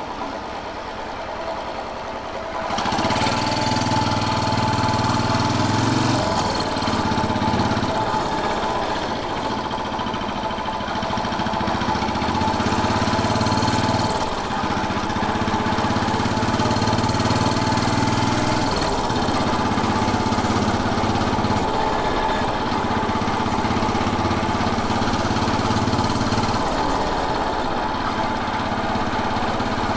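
Royal Enfield Bullet 500's single-cylinder engine running on the move. It is quieter at first, gets louder about three seconds in, and then eases off briefly several times before picking up again.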